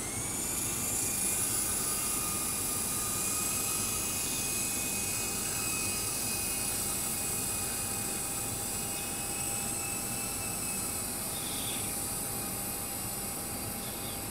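Twister 400 V2 radio-controlled helicopter's electric motor and rotor running in flight: a steady high whine made of several tones. The whine levels off early on after rising in pitch as the rotor spools up.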